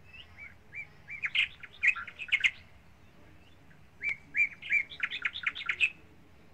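A bird chirping: quick runs of short, high chirps, one run starting just after the start and a second about four seconds in.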